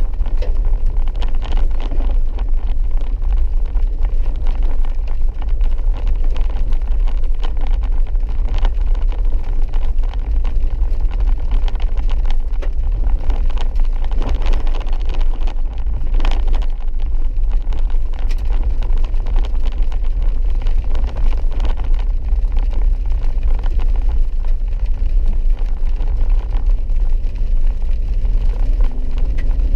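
Four-wheel-drive vehicle driving along a wet dirt road: a steady, loud low rumble of engine and tyres that holds even throughout.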